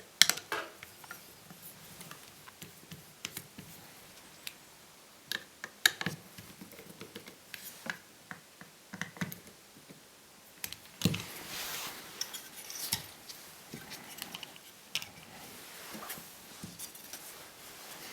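Laptop parts being handled by hand during disassembly: scattered small clicks and taps of plastic and metal pieces, with a short stretch of scraping about eleven seconds in.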